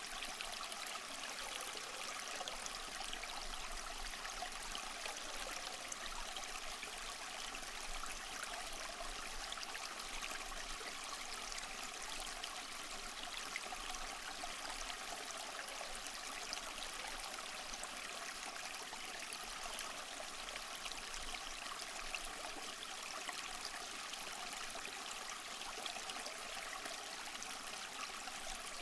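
Small waterfall splashing and trickling steadily, a continuous even rush of water.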